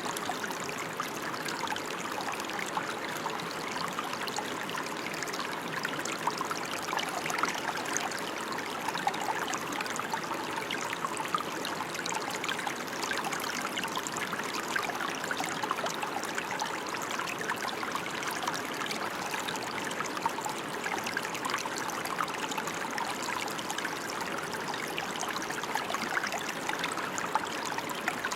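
Steady rain: an even hiss of falling water made of countless small drop ticks, unchanging throughout.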